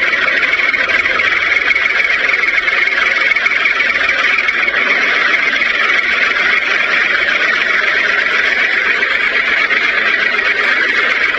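Small electric motor running steadily with a continuous buzzing whine, typical of a home-made toy construction machine driven by a DC motor.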